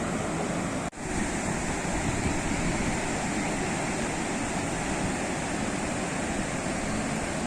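Sea surf: a steady wash of breaking waves. It cuts out for an instant about a second in.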